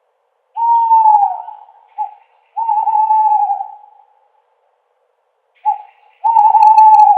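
An owl hooting: three long hoots of a second or more, each on one slightly wavering pitch, the first dipping at its end. The second and third are each preceded by a short note half a second before.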